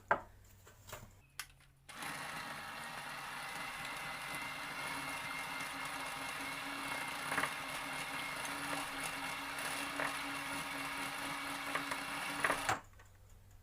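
Electric hand mixer running steadily, beating the cream smooth to break up the skin that has formed on it. It starts about two seconds in and stops abruptly near the end.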